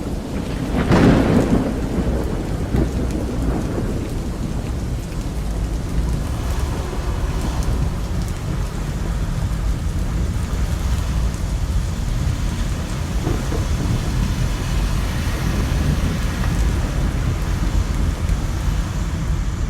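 Heavy rain with thunder: a loud thunderclap about a second in, then steady rainfall over a continuing low rumble.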